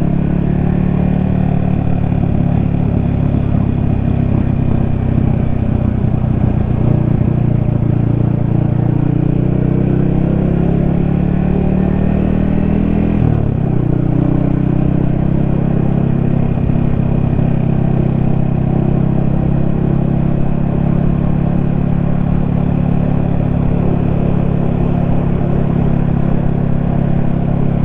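Yamaha XSR155's single-cylinder engine running steadily under way, with a quick drop and rise in pitch about halfway through.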